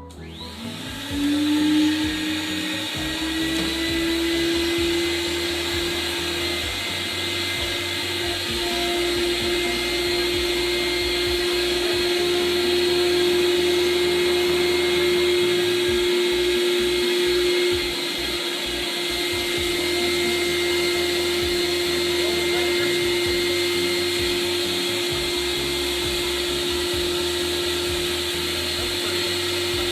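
Noah Flood Control Machine's vacuum motor starting up about a second in, its whine rising briefly in pitch and then running steadily.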